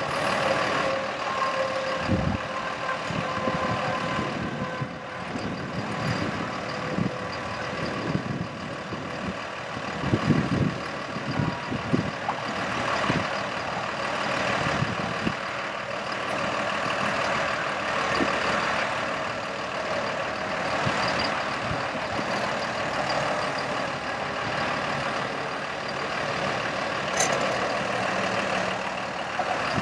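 Freightliner M2 bucket truck's diesel engine running steadily, with a few low thumps near the start and a cluster about a third of the way in.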